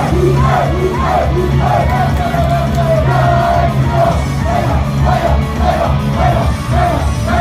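Live pop music over loudspeakers, with a heavy bass beat and a short, repeating sung melody, recorded on a phone in the audience. Crowd shouts are mixed in.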